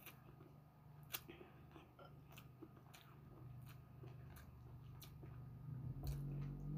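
Quiet close-up chewing of plain pansit noodles, with scattered small clicks. A low rumble swells near the end.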